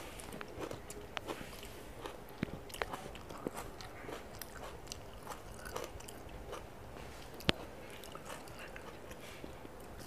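Close-miked chewing and wet mouth sounds of someone eating rice and chicken curry by hand, with squelches of fingers working the food in the gravy. A single sharper click stands out about seven and a half seconds in.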